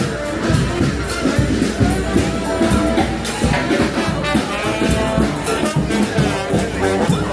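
Live street brass band playing, horns carrying the tune over a steady drum beat.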